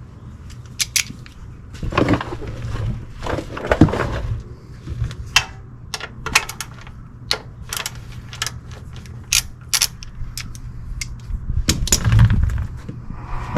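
Irregular metallic clicks and clatter of a 3/8 ratchet and 14 mm socket loosening the oil drain plug, with a few louder scuffs about two and four seconds in and near the end.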